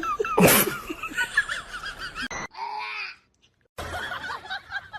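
People laughing, with a sudden loud noise about half a second in and a brief drop to near silence a little after three seconds in.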